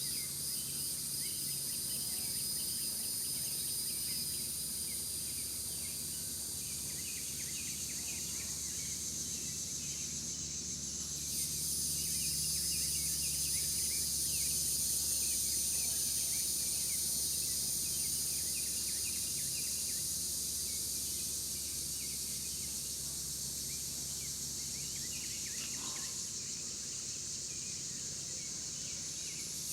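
Outdoor ambience of a steady, high-pitched insect chorus, with many short bird-like chirps scattered through it.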